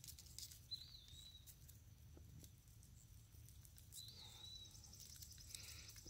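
Near silence: faint outdoor ambience with two short, high chirps from a bird, one about a second in and one about four seconds in.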